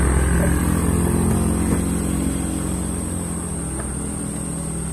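Truck engine running steadily with a low drone, slowly getting quieter.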